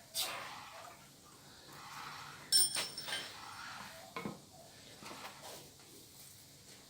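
Steel knocking on steel at the anvil, three separate clanks, the loudest about two and a half seconds in ringing briefly with a high tone.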